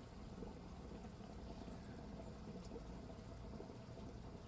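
Faint, steady bubbling of an air stone aerating a 55-gallon fish tank.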